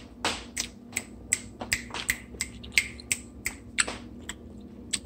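Someone chewing a mouthful of noodles with wet, clicking mouth smacks, about three a second at an uneven pace.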